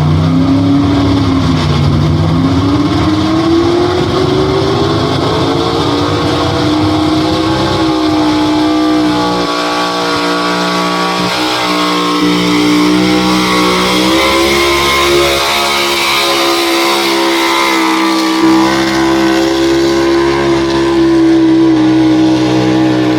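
Pro Stock four-wheel-drive pulling truck's big-block Chevrolet V8 under full load pulling the sled. The engine pitch climbs over the first several seconds and then holds steady and loud at high revs.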